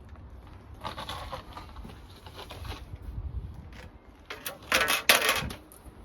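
Two bursts of scraping and clattering of hard material, the second, about four and a half seconds in, shorter and louder.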